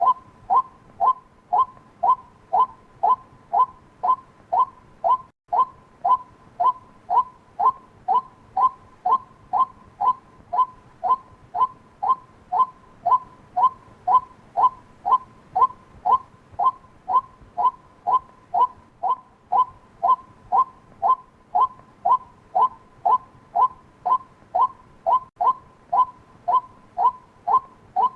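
White-breasted waterhen call: a short, slightly falling 'kwak' note repeated evenly about twice a second without pause, as used for luring the bird.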